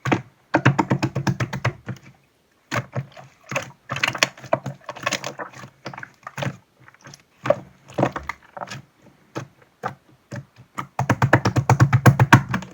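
Clear slime being squeezed and worked by hand, giving runs of quick sticky popping clicks, with a fast dense burst about half a second in and another near the end.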